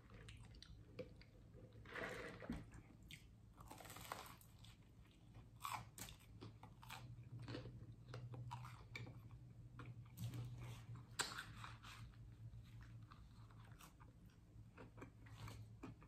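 A person chewing a mouthful of toasted bagel topped with crispy hash browns: faint, crisp crunches at irregular intervals.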